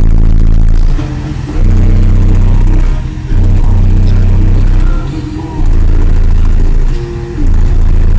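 Four 18-inch Digital Designs subwoofers in a fourth-order box playing bass-heavy music very loud, with long, deep bass notes that change about every second and a half, and the recording overloaded by the bass.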